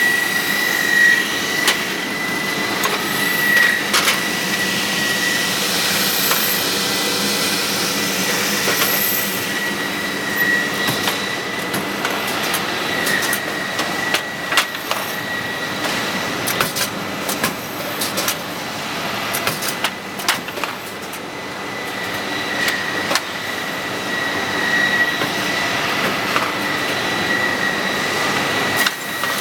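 Production machinery for truck brake linings running steadily, with a constant high whine over a rushing noise and scattered sharp clicks and knocks.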